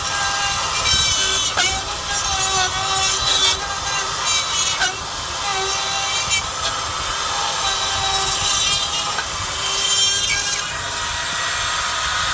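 A handheld power tool running steadily under load, working at a part of the machine during the coupler removal, with a whine that shifts in pitch.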